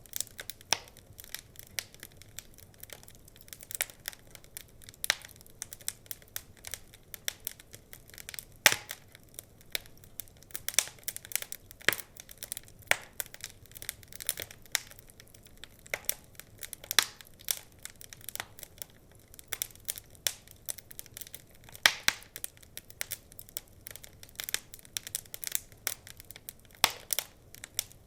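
Wood fire crackling: irregular sharp pops and snaps, a few louder ones standing out, over a soft low background.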